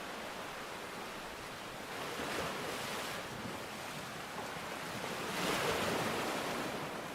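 Steady rushing water noise that swells twice, about two seconds in and again about five and a half seconds in, then eases back.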